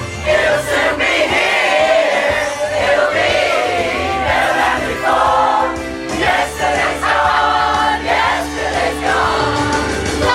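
A pop choir singing a song with many voices, over a steady accompaniment with a bass line.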